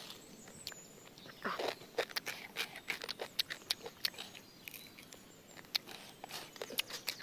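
Close-up crunching and chewing of raw, dry instant noodles: a quick, irregular run of sharp crackles.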